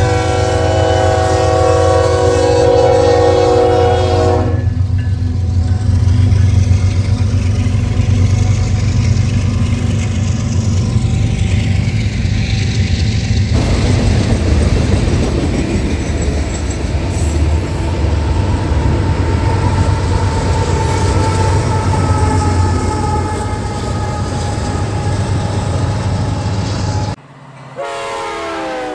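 Diesel train sound: a multi-chime locomotive horn blows for about four seconds over a steady engine rumble, then freight cars roll past with a steady wheel clatter. Near the end the sound cuts off abruptly and the horn sounds again.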